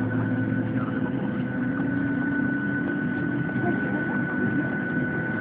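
Steady drone inside a Boeing 737-800 airliner cabin on the ground, with a constant low hum and a high, unchanging whine. Faint passenger voices murmur beneath it.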